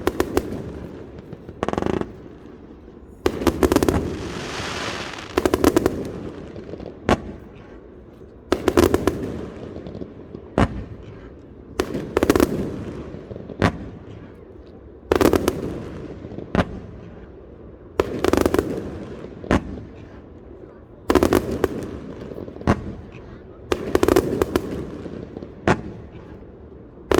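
Fireworks display: shells bursting in a steady rhythm, a dense cluster of rapid crackling reports about every three seconds, with a single lighter bang between each cluster.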